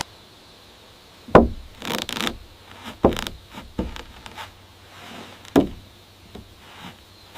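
Wooden knocks: three loud ones about two seconds apart, with lighter taps and scraping between them.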